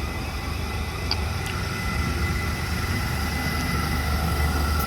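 Thameslink Class 700 electric train approaching: a steady low rumble that grows slowly louder, with a faint steady whine above it.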